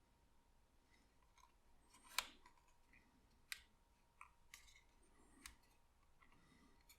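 Faint, scattered small clicks and taps of folded paper parts being handled and pressed together during gluing, the sharpest click about two seconds in.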